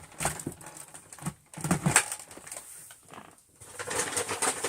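A bag rustling in irregular bursts with a dry, crackly clatter as crunchy test debris is tipped and shaken out of it.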